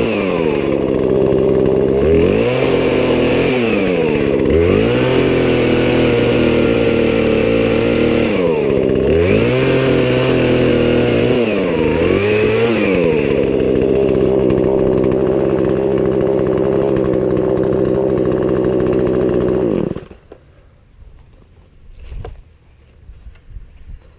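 Poulan Pro two-stroke chainsaw running at high revs, its pitch dipping and coming back up several times, then holding steady before the engine cuts off suddenly about 20 seconds in. A few faint knocks follow.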